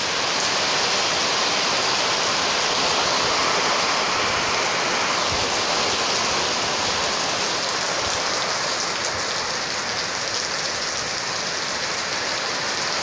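Heavy rain pouring steadily in a sudden storm, with a couple of brief low thumps about five and eight seconds in.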